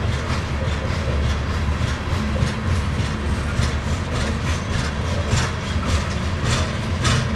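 Loaded coal cars of a slow freight train rolling past, with a steady low rumble of steel wheels on rail and a regular clack of the wheels about one to two times a second.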